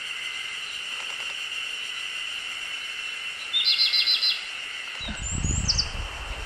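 A wild songbird gives a fast trill of about seven sharp notes a little over halfway through, followed near the end by a few very high, falling call notes, over a steady high-pitched background drone. A low rumble starts about five seconds in.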